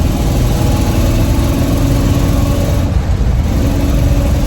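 Chevy 350 small-block V8 in a 1956 Chevrolet 3200 pickup running steadily as the truck drives, with a brief dip about three seconds in.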